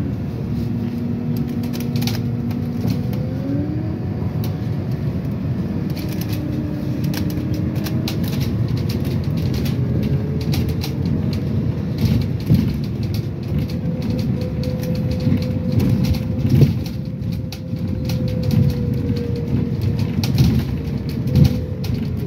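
Interior of a moving city public-transport vehicle: a steady low rumble of running gear with frequent short rattles and knocks. A thin whining tone rises in pitch a few seconds in, then drifts up and down through the rest.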